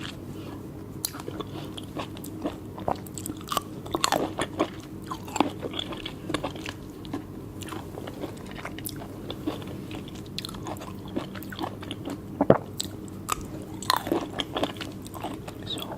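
Close-miked chewing of juicy, soft fresh fruit: wet mouth smacks and clicks at irregular intervals, with a steady low hum underneath.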